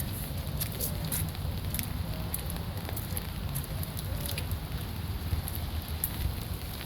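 Light rain pattering, with scattered sharp drop clicks, over a steady low rumble.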